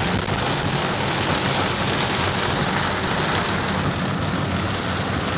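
Heavy rain hitting the windows and roof of a car, heard from inside as it drives: a steady, dense hiss over low road noise.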